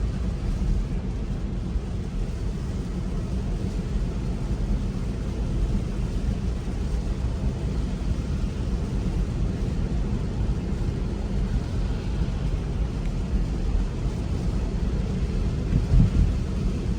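Steady low road rumble inside the cabin of a Tesla Model 3 driving on a wet, snowy road, mostly tyre noise with no engine sound, and a brief louder bump near the end.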